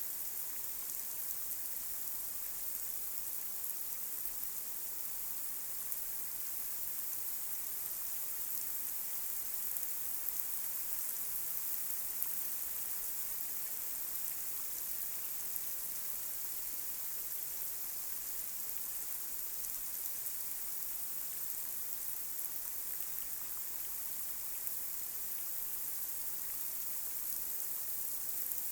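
Light rain falling on a street: a steady high hiss with faint scattered drop ticks and an occasional slightly louder drop.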